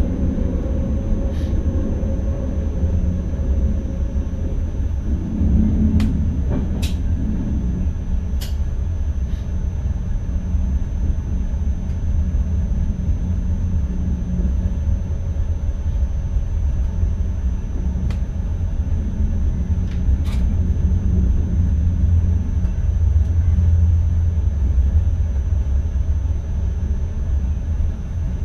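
Cab of an NS ICM electric multiple unit on the move: a steady low rumble of wheels and running gear on the track, with a faint steady high tone throughout. A few sharp clicks come about six to eight seconds in and once more near twenty seconds.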